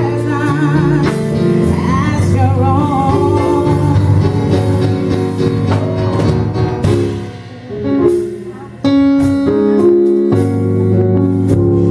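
Gospel music with singing over a backing of held chords; wavering, ornamented vocal lines in the first half. About seven seconds in the music drops quieter, then comes back in suddenly at full level with sustained chords.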